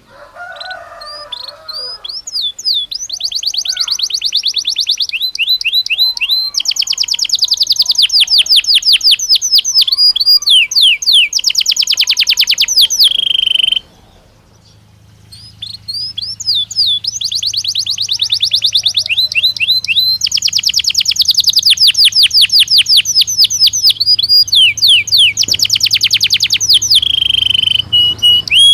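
Belgian canary singing two long song phrases, each a string of fast trills of repeated notes. There is a pause of about a second halfway through.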